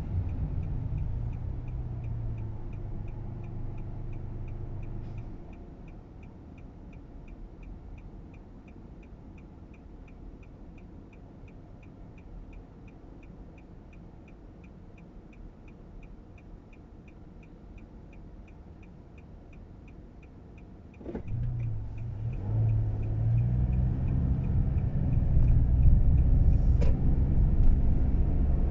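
Small car's engine heard from inside the cabin: it runs for a few seconds and then goes quiet, leaving a steady run of light ticks, about two to three a second. About 21 seconds in there is a click, and the engine comes back and grows louder as the car drives off.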